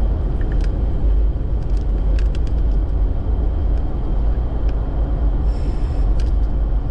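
Toyota Tacoma pickup truck driving on a snowy road: a steady low rumble of engine and tyre noise with a few faint scattered clicks.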